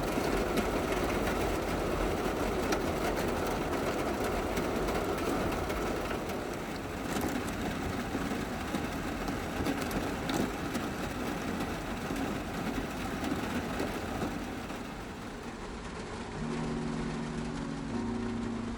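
Steady rain falling, with a few sharper drop taps. Low steady tones come in near the end.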